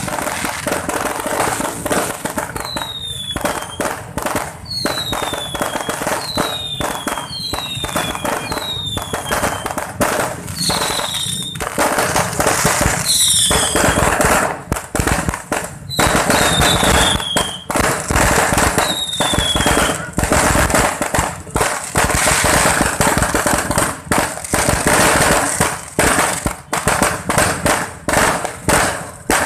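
Fireworks display: a dense, continuous run of bangs and crackles, a little louder in the second half. About ten short falling whistles come through in the first twenty seconds.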